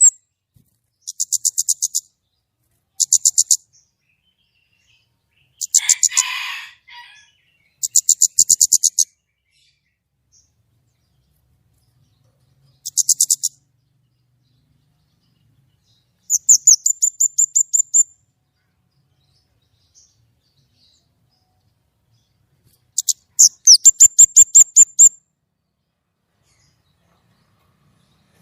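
A songbird (kemade) singing in short bursts of rapid, high-pitched repeated notes. Each burst lasts about a second, and there are about eight of them with pauses in between, the sharp 'nembak' shooting notes prized in a mastering recording.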